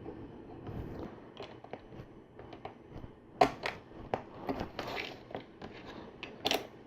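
Small plastic clicks and taps of LEGO plates and tiles being handled and pressed onto a build, with a few sharper clicks about three and a half seconds in and near the end.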